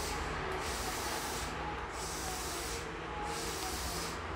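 Hankyu Takarazuka Line train standing at a platform with its doors open: a steady hiss with a faint low hum from the stationary train.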